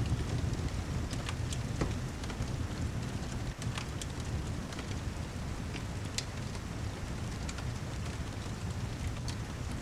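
Steady heavy rain with a low rumble underneath, and a fireplace crackling with scattered sharp pops every second or so.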